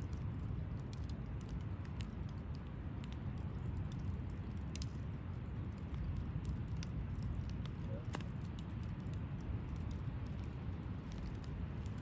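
Wood campfire burning: irregular sharp crackles and pops from the burning wood over a steady low rush.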